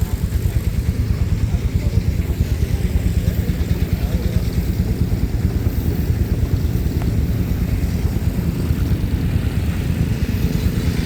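An engine running steadily at idle, a fast, even pulsing low sound.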